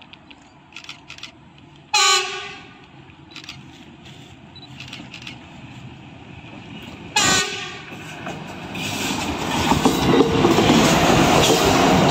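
Train horn giving two short blasts about five seconds apart, then the noise of the track-measuring train running on the rails, growing louder as it draws near.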